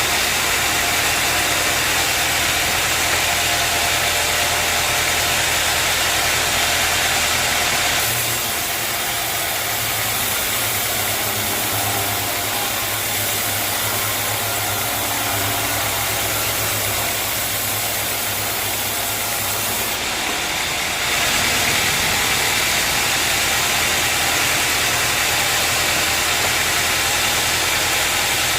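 Sawmill machinery running steadily: a low engine-like hum under a dense hiss. The sound changes abruptly about eight seconds in and again about twenty-one seconds in.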